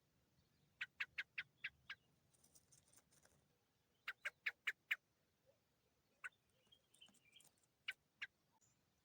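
A bird calling in quick runs of short, sharp notes, five or six at about five a second, twice, then a few single notes, with fainter high chirps in between.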